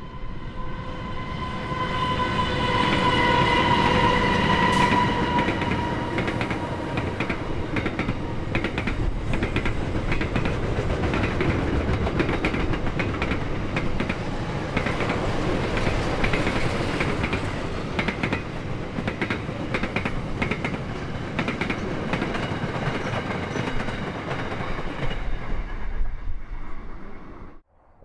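Diesel locomotives of a cement freight train passing close by, with a steady high whine that dips slightly in pitch as they go by, followed by the rhythmic clatter of a long string of cement tank wagons rolling over the rails. The sound cuts off suddenly near the end.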